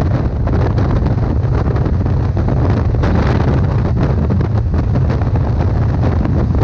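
Motorcycle riding at speed, heard from an onboard action camera: wind buffeting the microphone over the steady low rumble of the engine.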